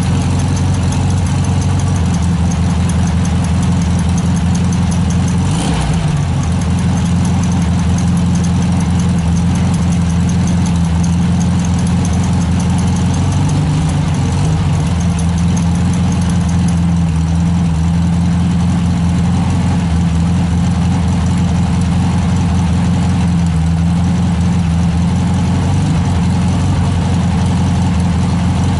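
Air-cooled 1600 dual-port flat-four of a 1971 VW Super Beetle idling steadily through an EMPI GT dual-tip exhaust with a deep rumble, warming up after a cold start. A brief click sounds about six seconds in.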